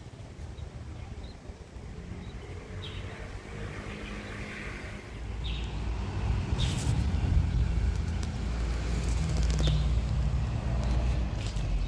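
A low engine rumble growing louder about halfway through and staying loud, with birds chirping briefly now and then.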